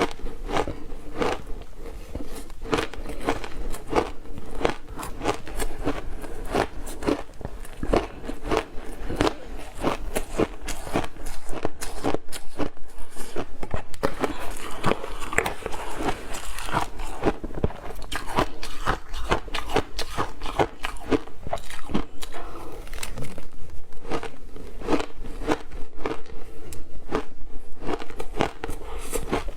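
Ice being bitten and chewed close to the microphone: a steady run of sharp crunches, about two a second.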